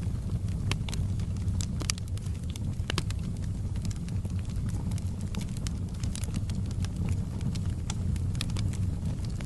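Wood fire in a fireplace crackling: irregular sharp pops and snaps, a few at a time, over a steady low rumble of the burning fire.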